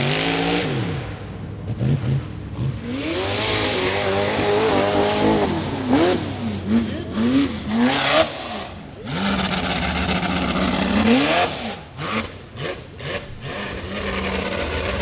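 Rock bouncer buggy's high-horsepower engine revving hard on a climb, its pitch rising and falling again and again, with several quick blips midway and a held note that climbs before dropping away. A run of sharp knocks follows later on.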